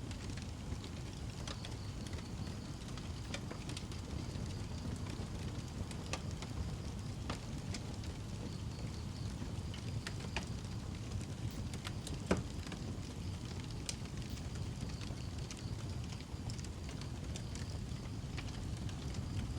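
Wood fire burning in a fireplace: a steady low rumble of flames with scattered sharp crackles and pops, the loudest about twelve seconds in.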